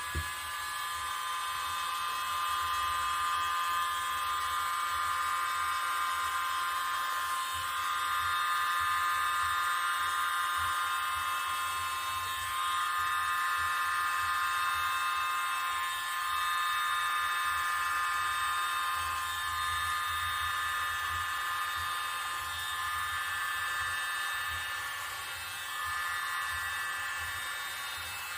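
Small electric air blower running steadily with a high whine and a rush of air, pushing poured acrylic paint across a canvas; its loudness dips briefly a few times as it is moved.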